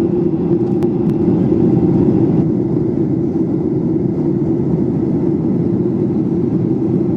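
Steady cabin drone of a jet airliner on descent: engine and airflow noise heard from a passenger seat, strongest in a low hum. Two faint clicks about a second in.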